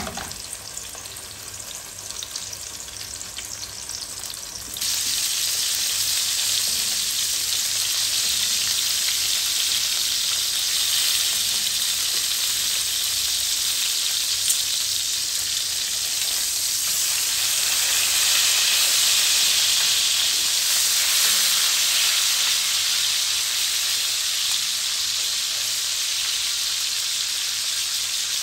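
Pork chops and whole garlic cloves shallow-frying in hot oil in a stainless steel pan: a steady sizzle that jumps louder about five seconds in.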